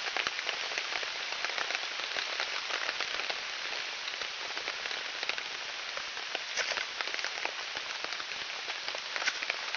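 Steady pouring rain falling on a tarp and the surrounding woods, with many small drop clicks. A few sharp scrapes stand out, about two-thirds of the way through and near the end: an awl struck down a ferrocerium fire steel to throw sparks onto damp tinder.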